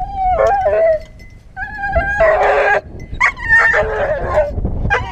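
Hunting dog whining and yelping in several high-pitched, wavering cries.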